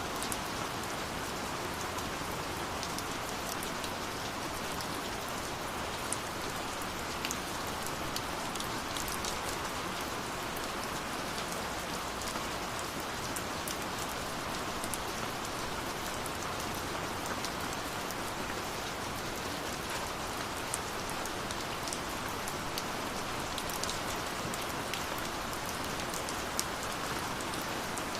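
Steady rush of a waterfall, with a wood fire crackling over it in small scattered clicks and an occasional louder pop.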